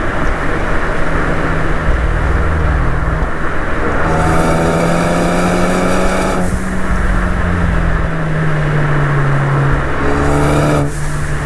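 Ford Focus ST's turbocharged four-cylinder engine pulling hard on the road, with steady wind and road noise. About four seconds in, a rising whine builds for two seconds and then cuts off suddenly as the throttle lifts, and a shorter rise cuts off the same way near the end.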